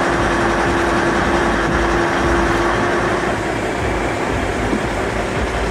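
Steady rumble of a heavy vehicle engine running, with a held hum that fades out a little past halfway.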